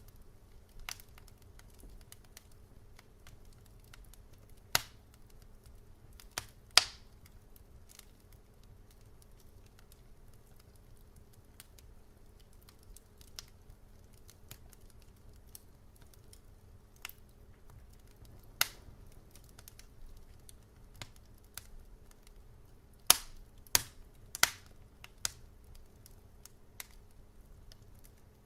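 Wood fire crackling: sharp, irregular pops and snaps over a faint low rumble and hum, with the loudest pops about 5 and 7 seconds in, one near 18 seconds, and a quick cluster of them near the end.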